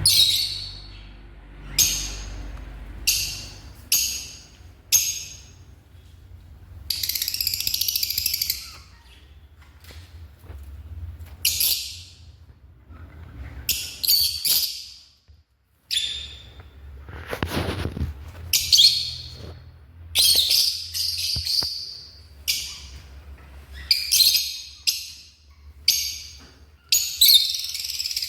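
Lovebirds calling: short high-pitched chirps coming every second or two, some running together into longer chattering stretches.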